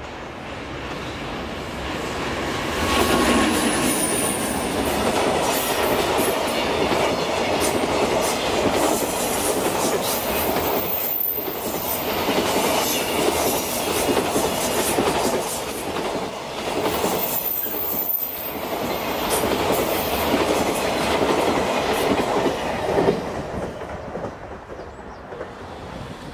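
An EH500 electric locomotive hauling a long container freight train passes close by. It builds to a loud rumble about three seconds in as the locomotive goes past. Then the wagons follow with a steady clickety-clack of wheels over rail joints and two brief high wheel squeals, and the sound fades away near the end.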